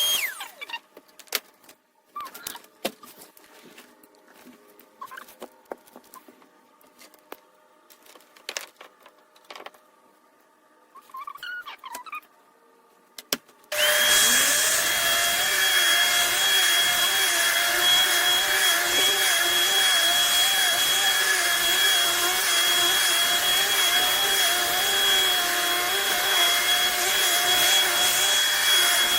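A vacuum cleaner shuts off, followed by about fourteen seconds of scattered light clicks and knocks. Then a Shark Vertex powered lift-away upright vacuum switches on, spins up and runs steadily with a high whine.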